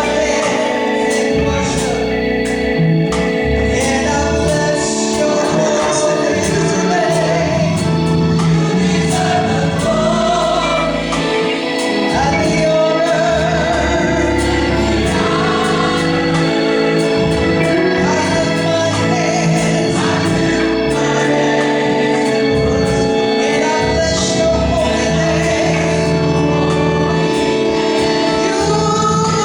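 Gospel choir singing with instrumental accompaniment, a steady bass and sustained chords underneath.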